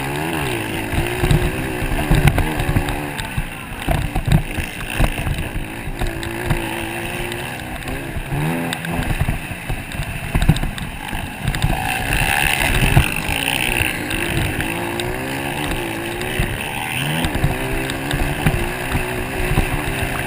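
Motocross bikes racing, their engines revving up and falling back again and again through gear changes.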